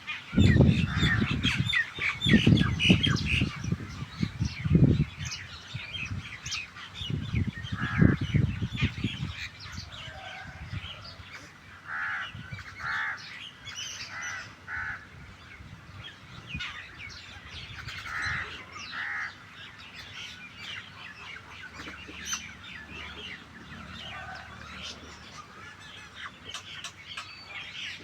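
Starlings and mynas calling and chattering, with many short overlapping calls and a few repeated harsh notes. Low rumbling bursts are loud in the first nine seconds or so.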